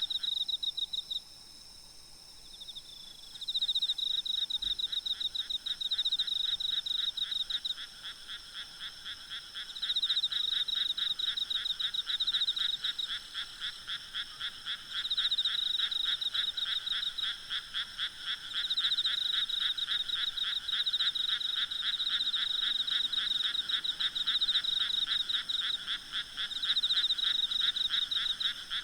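Night chorus of frogs croaking in rapid pulsing bouts of several seconds each. They fall silent briefly about a second in and start again about three seconds in. A steady high-pitched insect drone runs beneath.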